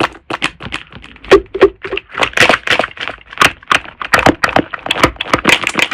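Slime being squeezed and pressed by hand, giving quick, irregular clicks and pops of trapped air, several a second.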